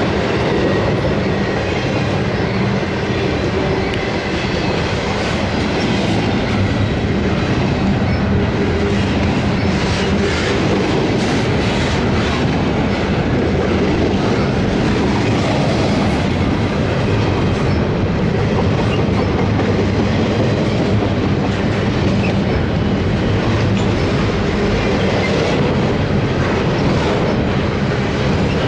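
Intermodal freight cars carrying double-stacked containers and highway trailers rolling past close by at a steady speed. The steel wheels make a continuous, loud rumble on the rails, with clicking as they cross the rail joints.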